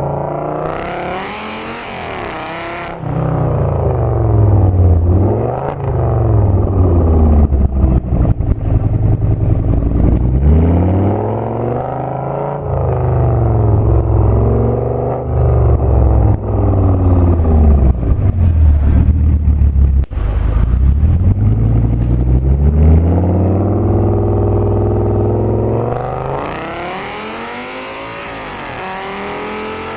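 Audi S8's V10 through a Meisterschaft aftermarket exhaust, loud, revving hard again and again: the pitch climbs through the revs and drops back each time it lifts off or shifts. A loud hiss lies over it for a couple of seconds at the start and again near the end.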